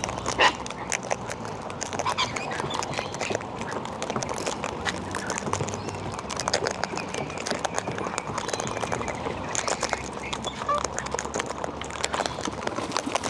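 Wild cockatoos and parrots feeding from a seed tray: dense, quick clicking and tapping of beaks and feet on seed and tray, with a few short squawks, the loudest about half a second in.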